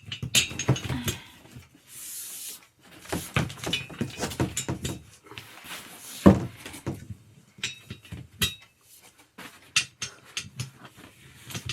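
Irregular knocks, clicks and clatter of gaming-chair parts being handled during assembly, with a short rustle about two seconds in and one loud knock about six seconds in.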